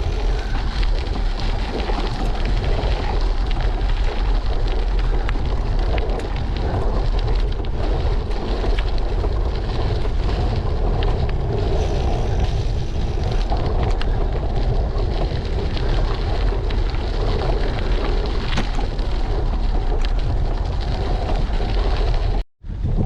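Wind buffeting the microphone of a GoPro on a moving bicycle: a steady, loud low rumble. The sound cuts out for a moment near the end.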